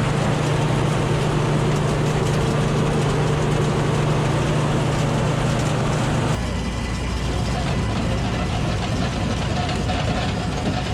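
John Deere 955 combine harvester running steadily with its machinery engaged. A little over six seconds in, the engine note drops abruptly to a lower, slightly quieter hum.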